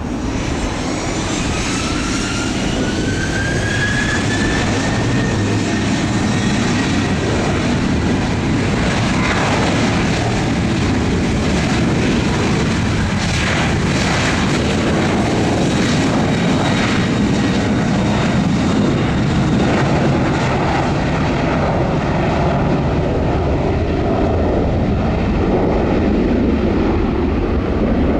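Jet airliner's engines running loud and close, with a whine that rises in pitch over the first few seconds.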